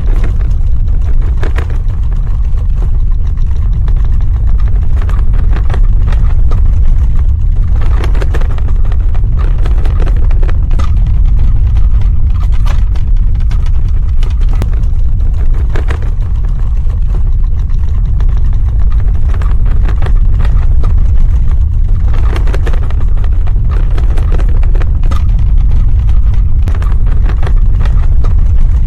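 Earthquake sound effect: a loud, continuous deep rumble with many short cracks and rattles scattered through it.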